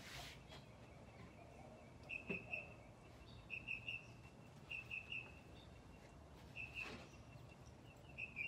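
A small bird chirping, several short high notes in quick little groups repeated every second or so. A soft rustle of quilt fabric being smoothed by hand comes once at the start and again about seven seconds in.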